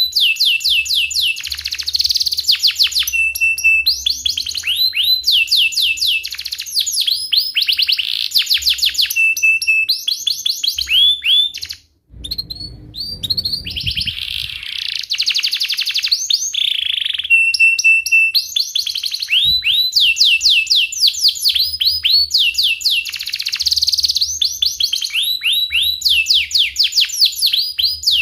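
Domestic canary in full song: long runs of rapid repeated chirps and rolling trills, with short steady held notes, broken once by a brief pause about twelve seconds in.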